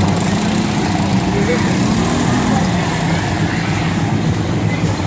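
Quad bike engine running steadily at an even speed, with no revving.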